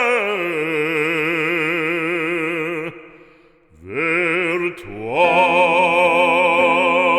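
Recorded music: a solo singer in an operatic style holds a long note with wide vibrato. The voice breaks off about three seconds in, then glides up into another long held note. The song is a French sacred song asking God for pardon and clemency.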